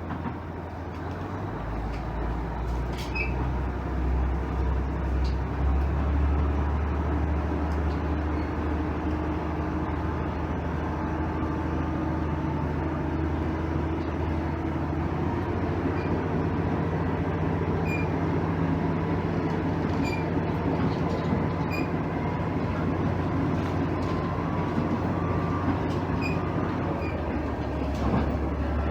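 The diesel engine of a JR East KiHa 110 series railcar, heard from inside the car. It opens up about a second or two in as the railcar pulls away, then runs steadily under power, with a tone that rises slowly as it gathers speed.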